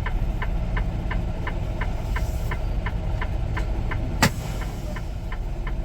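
Semi truck idling, heard from the cab, with an indicator clicking steadily at about three ticks a second. One sharp click about four seconds in.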